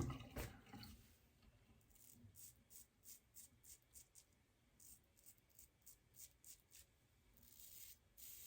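Faint, short scrapes of a shavette razor blade drawn through lathered stubble, about two strokes a second.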